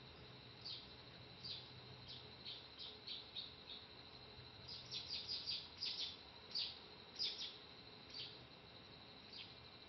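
Faint bird chirps: short, high notes that drop quickly in pitch, a few at a time, with a quick run of them about five to seven seconds in. A steady, faint high tone runs underneath.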